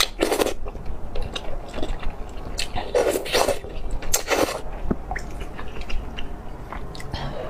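Close-miked eating: a person biting into and chewing crunchy food, with three louder crunches (at the start, about three seconds in and just after four seconds in) between softer chewing clicks and mouth smacks.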